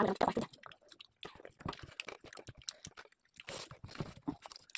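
Close-up chewing and mouth sounds of people eating a rice, dal and chicken meal with their hands: irregular short smacks and crunches, loudest in the first half second.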